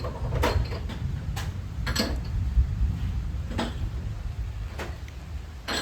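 A few scattered light knocks and clicks of utensils and containers being handled, over a steady low rumble.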